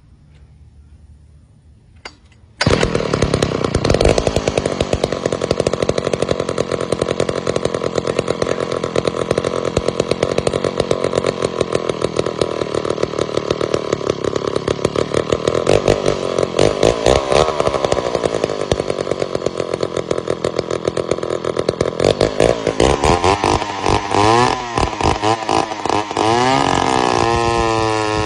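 Two-stroke chainsaw engine bursts into running about two and a half seconds in and runs at high speed, revved up and down several times near the end before dropping to a steady idle.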